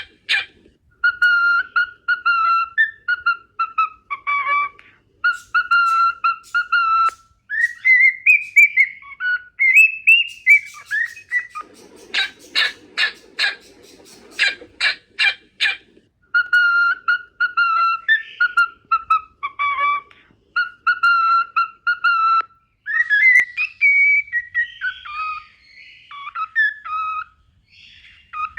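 Cockatiel whistling a song, repeating the same phrase several times. About halfway through comes a run of quick, harsh chattering notes.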